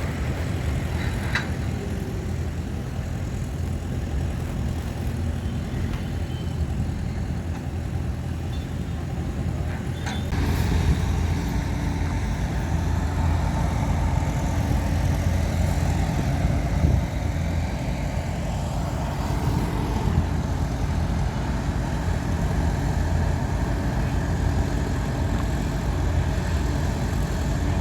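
Heavy diesel engines of earthmoving machinery (bulldozer and dump trucks) running steadily. The engine noise steps up and grows louder about ten seconds in.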